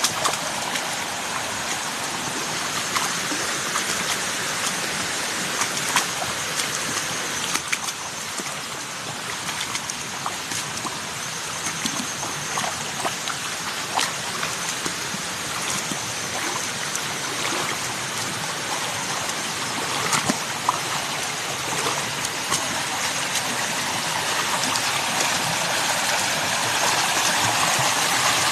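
Water running in a mountain stream: a steady rush with scattered small splashes, growing louder near the end.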